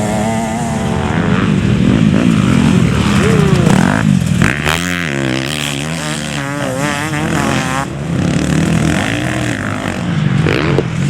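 Motocross bike engines revving up and down as they ride, the pitch rising and dropping again and again, most quickly from about four to eight seconds in.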